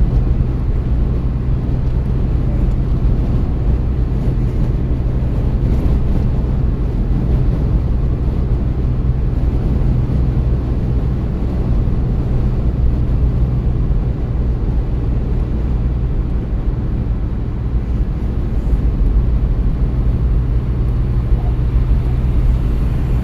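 Car driving at a steady speed, heard from inside the cabin: a steady low drone of engine and tyre noise.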